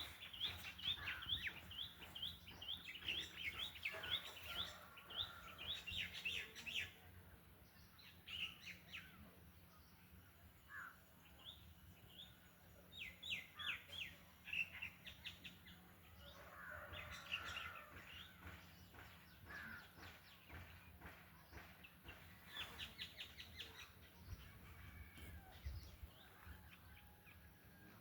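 Birds chirping: quick runs of short, sharp high notes, several a second, in bursts of a few seconds, with a harsher chatter in between.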